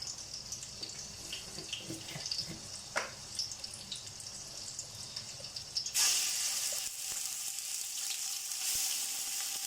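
Ginger-garlic paste hitting hot oil with whole spices in a pot, setting off a sudden loud sizzle about six seconds in that then keeps going steadily. Before that, only faint crackles and a sharp clink or two from the pan.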